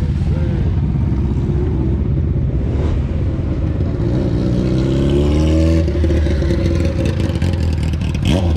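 Car engine running with a steady low rumble, revving up from about four seconds in and dropping back just before six seconds.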